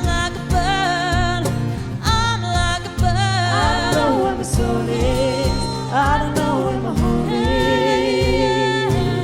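Several voices in harmony sing long held notes with vibrato over acoustic guitar and a steady cajon beat. The vocal lines swell and pause a few times.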